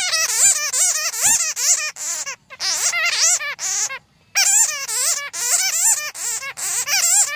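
Bats chattering: rapid, high-pitched squeaky calls that warble quickly up and down in pitch, with two brief pauses, one about two and a half seconds in and one about four seconds in.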